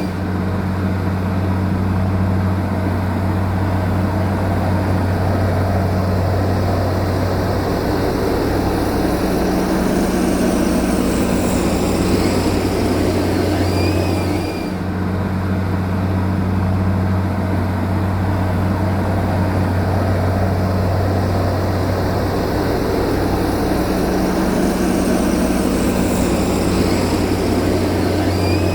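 Heavy diesel engine of earth-moving machinery running steadily with a deep, even drone, with a brief dip about halfway through.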